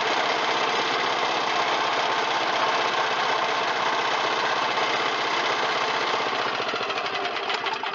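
Kawasaki FJ180V single-cylinder mower engine running steadily after its carburetor was cleaned: the engine now runs. Its sound drops off near the end.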